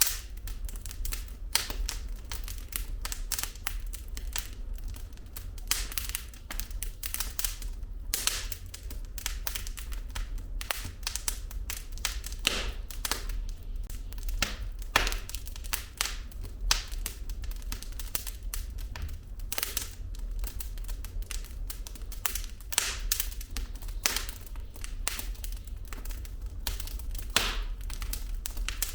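Wood fire burning in a fireplace, logs crackling and popping: many irregular sharp snaps of varying loudness over a low steady rumble of the flames.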